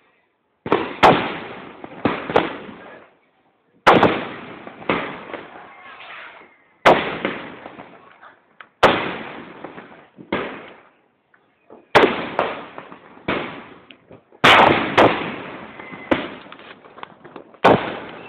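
Aerial fireworks shells bursting overhead, about a dozen loud bangs a second or two apart, each followed by a rumbling echo that dies away.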